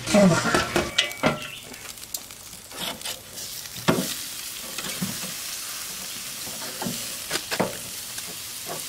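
A slotted spatula scraping and stirring diced potatoes in a frying pan for about the first second, then a steady sizzle of pork steaks cooking over a charcoal grill, with a few sharp clicks of metal tongs on the grate as the steaks are turned.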